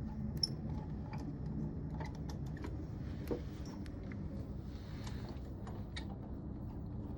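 Light metallic clicks and clinks of an impeller puller being handled as its thumb screw is backed out to reset the tool, over a steady low hum.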